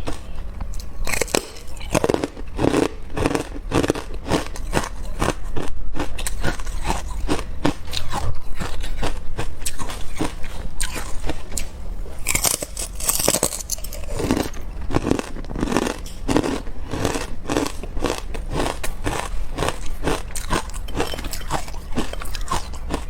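Carbonated ice being bitten and chewed: a dense run of sharp cracks and crunches, with crackling between the bites.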